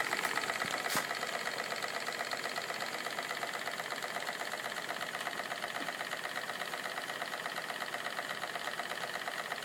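Steam engine with a piston valve running steadily with a rapid, even mechanical beat. A sharp click about a second in.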